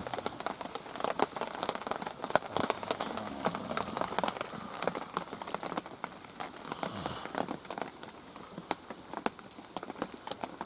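Heavy rain falling in woodland, with many irregular drops pattering and tapping on nearby surfaces.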